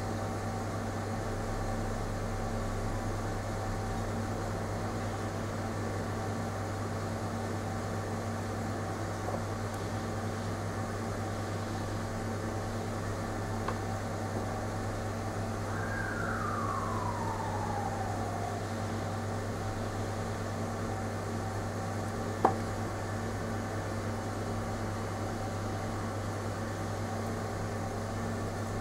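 Steady electrical or fan-like hum. About sixteen seconds in, a short falling tone glides down over two seconds, and a single sharp click comes at about twenty-two seconds.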